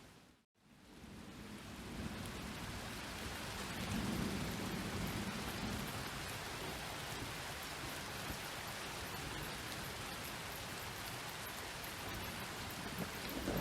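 Steady rain pattering on surfaces. About half a second in, the sound drops out to silence for a moment and then fades back up. Low rolls of thunder come about four seconds in and again at the very end.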